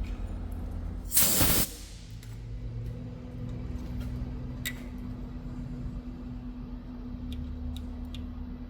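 Workshop lathe running with a steady hum. About a second in, a loud half-second blast of hissing air cuts in and stops, and a few faint ticks follow near the end.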